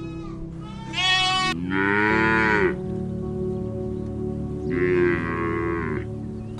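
A cow mooing in two long calls, each rising then falling in pitch, over steady background music.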